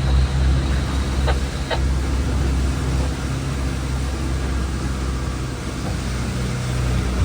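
Boat engine running steadily with a low drone, and two faint clicks about a second and a half in.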